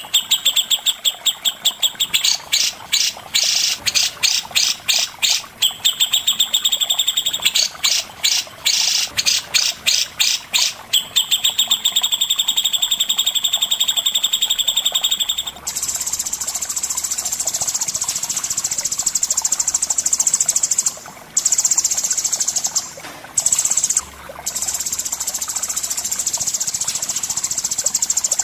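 Songbird song from a masteran recording: rapid, evenly repeated high chirps at about four a second. About halfway through it changes to a continuous high buzzing trill, broken by a few short pauses.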